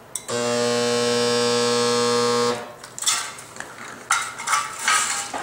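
Resistance spot welder buzzing with a steady, loud hum for about two seconds while it fires a weld, cutting off sharply. Metal clanks and rattles from the sheet being handled follow.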